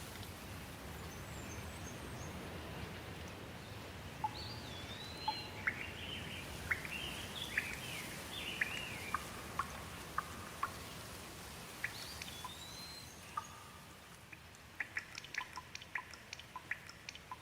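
Steady rain with birds chirping and calling over it. Near the end the rain thins out and gives way to a quick run of water drips.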